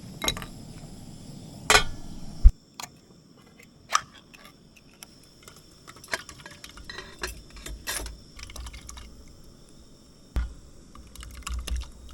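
Scattered clicks, knocks and clinks with water dripping, from gear being handled in a canoe; the sharpest knock comes about two and a half seconds in.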